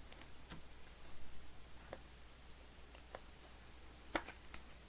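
Trading cards being handled on a table: about half a dozen faint, scattered clicks and taps, the sharpest a little after four seconds in, over a steady low hum.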